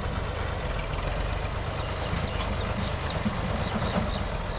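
New Holland Ghazi tractor's diesel engine running steadily, a continuous rapid low rumble.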